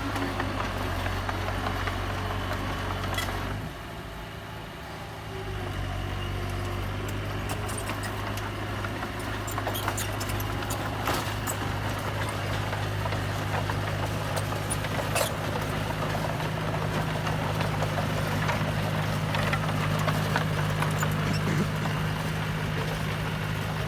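Komatsu mini bulldozer's diesel engine running steadily, with a few sharp metallic clanks. The sound drops briefly about four seconds in.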